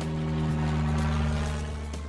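Aircraft engine sound effect that swells to a peak about a second in and then slowly fades, over background music.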